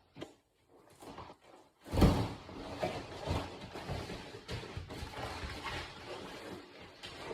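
Bodies grappling with a grappling dummy on a mat: a heavy thud about two seconds in, then irregular thumps and scuffling as they move against each other and the mat.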